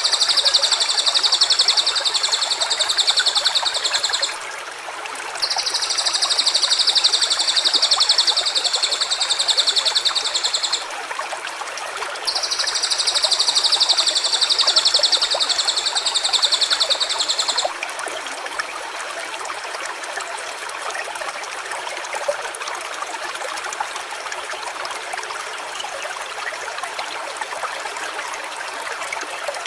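Three long, high, buzzing trills, each lasting about five seconds with short gaps between, over a steady running stream; the trills stop about 17 seconds in and only the stream goes on.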